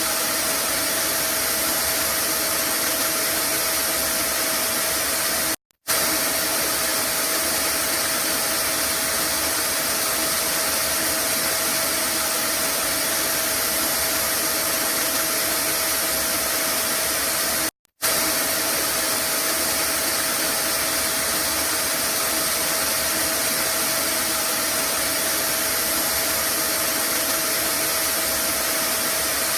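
Vacuum cleaner running steadily as white noise: a constant rushing hiss with a steady hum tone in it. It cuts out to silence for a split second twice, about 6 and 18 seconds in, then resumes unchanged.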